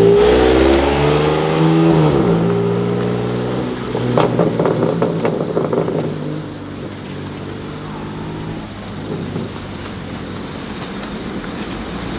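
A modified car's engine revving hard as it pulls away, its pitch climbing and then dropping at a gear change about two seconds in before climbing again. Around four to six seconds in there is a rapid run of sharp cracks, and after that the engine sound is quieter and steady.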